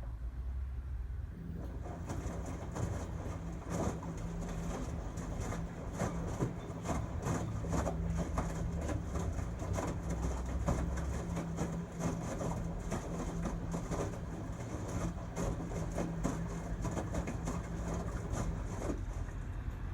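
2006 LG Tromm WD-CR101C drum washing machine running its quick wash cycle: a steady motor hum comes on about a second and a half in and stops just before the end, with irregular clicks and knocks throughout.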